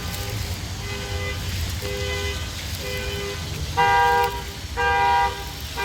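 Car horn honking in a steady rhythm, about once a second, with two tones sounding together in each short blast; the fourth and fifth honks are the loudest.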